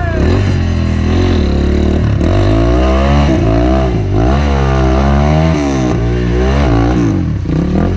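Enduro dirt bike engine running hard with the throttle worked on and off, its pitch rising and falling several times in quick revs.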